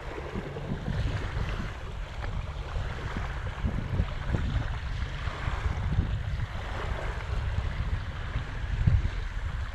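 Wind buffeting the microphone, an uneven low rumble, over a faint wash of water.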